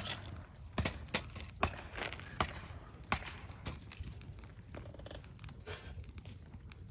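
Wood campfire crackling: sharp, irregular pops and snaps over a low, steady rumble, growing sparser near the end.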